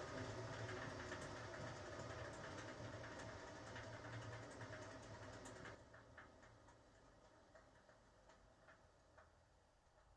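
A 1980 HUWA Automatic Standard 4 washing machine running down: its steady hum slowly fades, then cuts off sharply about halfway through, leaving only faint scattered ticks.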